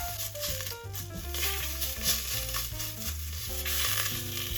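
Vegan chick'n strips and dry spices sizzling steadily as they brown in a hot pan, under background music with a stepping melody and a bass line.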